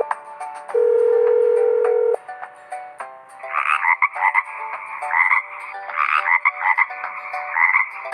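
Frog croaking: a run of raspy, pulsing croaks from about three and a half seconds in until near the end, over a light children's tune with a held buzzy note early on.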